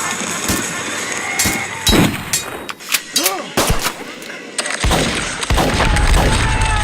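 Recreated Civil War battle sound: scattered musket shots at irregular intervals, then a heavy low rumble like cannon fire in the last two seconds.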